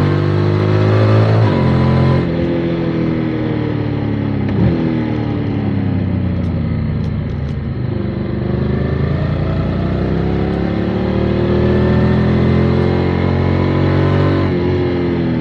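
Motorcycle engine under way, the pitch dropping sharply at a gear change about a second and a half in. It then winds down as the bike slows, pulls back up as it accelerates, and drops again at another gear change near the end.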